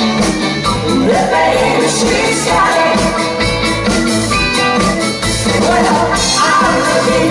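Rock band music with a singer: drums, bass and guitars playing a steady beat under a lead vocal.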